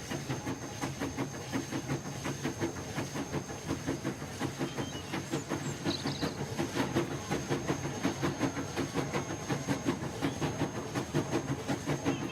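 Moving train, its wheels clattering over the rail joints in a fast, steady rhythm under a steady hiss, with a couple of faint high chirps about halfway through and near the end.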